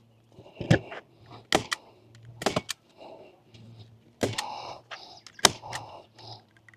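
Parts of a camper platform kit being handled and fitted together: a series of sharp knocks and clicks, about five, with scraping and rustling between them.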